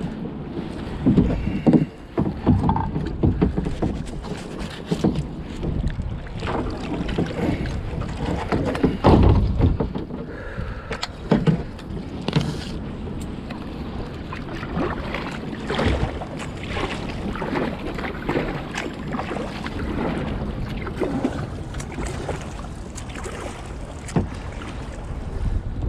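Water sloshing and irregular knocks and splashes around a kayak on the water, with wind buffeting the microphone.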